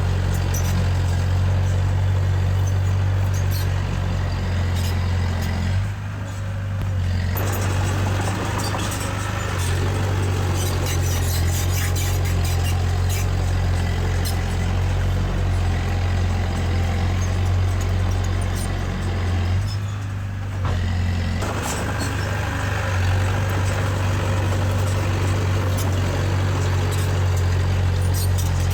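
Diesel engine of earthmoving machinery running steadily under work, with a deep, even hum and scattered faint clanking ticks; the sound drops briefly twice, about six seconds in and about twenty seconds in.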